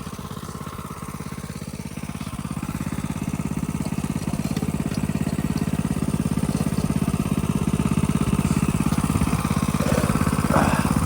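Small single-cylinder minibike engine running steadily with a fast, even putter, growing louder over the first few seconds and then holding level.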